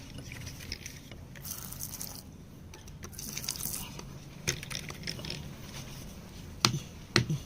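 Rock being scraped and chipped by hand to free a mineral specimen: two short rasping scrapes, then a few sharp knocks of tool on stone, loudest near the end.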